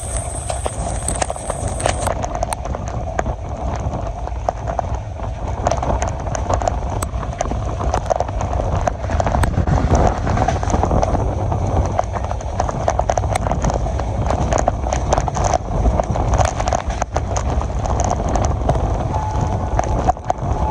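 Moving passenger train: a steady low rumble with dense, irregular clattering of wheels over the rails.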